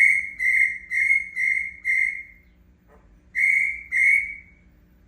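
Cricket-like chirping: a run of short, high chirps about two a second, then a pause with a faint click, then two more chirps.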